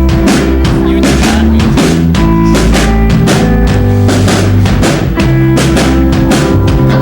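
Loud rock music: a full drum kit keeps a steady beat with kick and snare over sustained bass and guitar notes.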